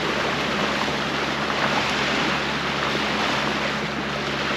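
Wind and rushing water as a sailboat moves through the sea, with gusts on the microphone and a steady low hum underneath.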